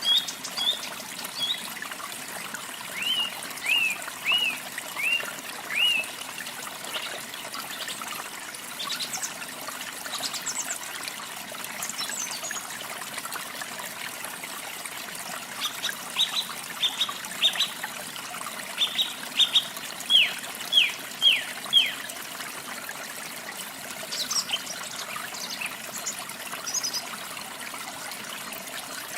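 Running water trickling steadily, with birds singing over it in short, repeated whistled notes. A run of about five notes comes a few seconds in, and a louder string of chirps follows past the middle.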